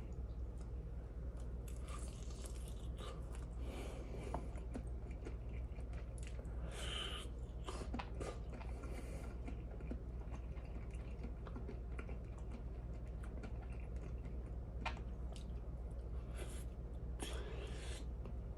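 A person chewing and crunching food close to the microphone, with scattered crunches and small clicks over a steady low hum.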